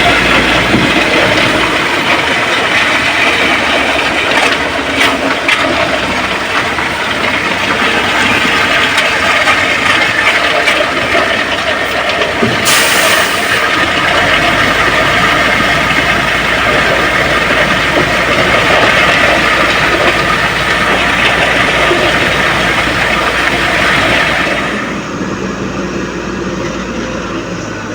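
Heavy construction machinery running steadily with a loud engine noise, which drops off about 25 seconds in.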